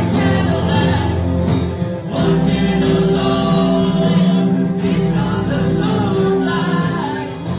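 Several voices singing a song together, with acoustic guitar accompaniment.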